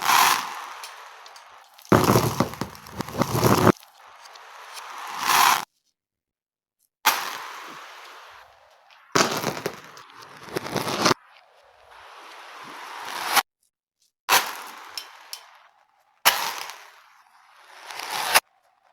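Beads clattering and scattering, played in reverse: each short clip starts suddenly, thins out, then swells to a sharp clatter and cuts off, with brief silences between clips.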